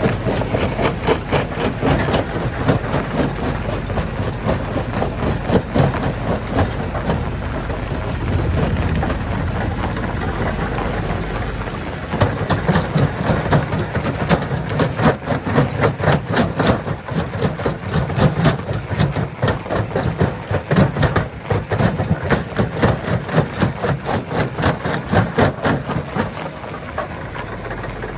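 A heavy engine running, with many sharp knocks and rattles in quick succession as of rock being crushed or broken. The knocking grows denser and sharper about halfway through.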